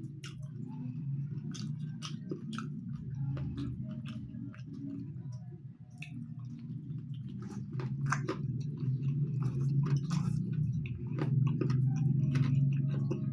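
Close-miked chewing of food, with many short wet mouth clicks and smacks.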